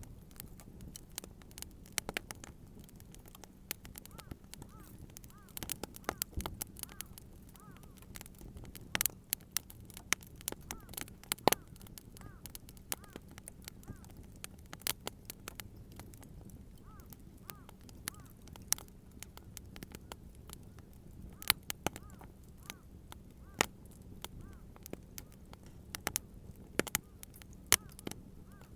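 Wood campfire crackling, with irregular sharp pops of burning wood over a low, steady background.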